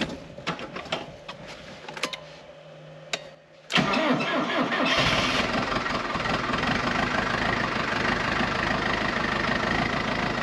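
Tractor engine starting about four seconds in, after a few light clicks, then running steadily. The newly installed switch is working.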